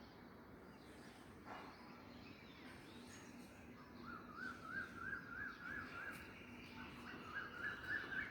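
Faint birdsong: a bird repeats quick up-and-down chirping notes, about four a second, in two runs starting about halfway through.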